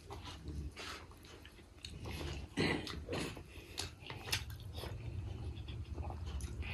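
A person chewing and biting food close to the microphone, mukbang-style, with wet mouth clicks and a few sharper bites.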